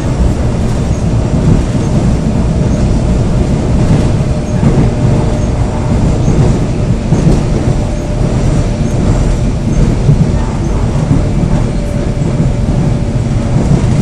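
Korail Seoul Subway Line 3 electric train running steadily along the track: a continuous low rumble of wheels on rail with a faint steady tone above it.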